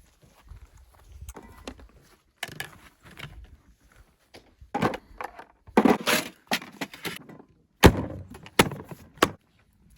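Irregular knocks, clunks and scraping of objects being handled, with a sharp knock about eight seconds in.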